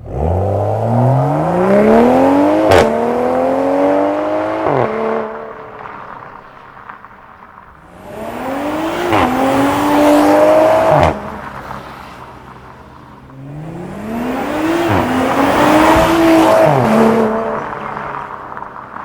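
BMW M340i xDrive's B58 turbocharged straight-six through a Stone valved catback exhaust, accelerating hard three times. On each pull the note climbs in pitch, then drops with a short crack at each gear change, twice per pull.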